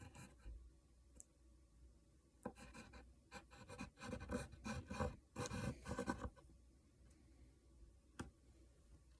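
Someone writing by hand, faint scratching strokes of a writing tool across a surface. They come in a quick flurry from about two and a half to six seconds in, then a single sharp click near the end.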